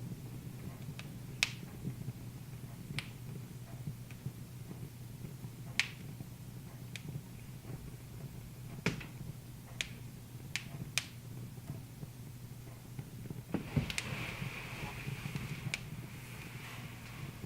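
Wood fire crackling in a fireplace: irregular sharp pops, about ten in all, over a steady low hum, with a brief hiss about fourteen seconds in.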